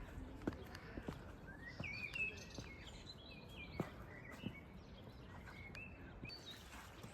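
Birds chirping in a run of short, high calls, with a few faint sharp ticks among them.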